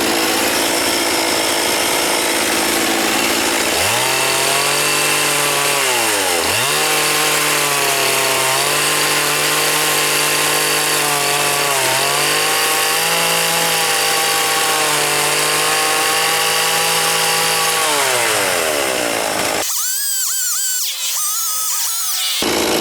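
Gas chainsaw running at high revs while cutting out a drawer handle in a cedar log. Its pitch sags as the bar takes load, sharply about 6 s in and again near 12 s, then falls as the throttle is let off a few seconds before the end. Near the end there is a short stretch of high whine without the low engine sound.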